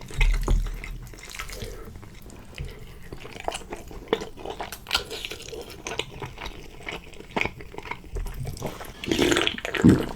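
Close-miked wet chewing of chicken: scattered mouth clicks and smacks, with louder bursts near the start and near the end.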